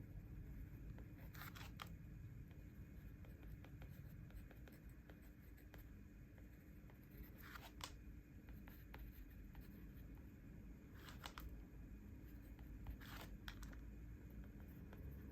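Faint paper handling at a desk: four short, scratchy strokes spaced several seconds apart, over quiet room tone.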